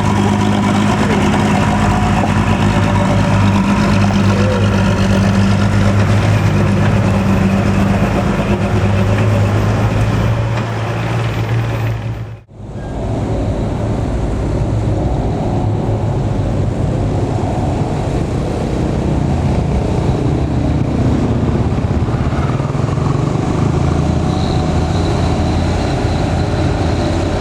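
Old Toyota truck engine running steadily under way, a deep steady hum. About halfway through, the sound drops out for a moment and comes back.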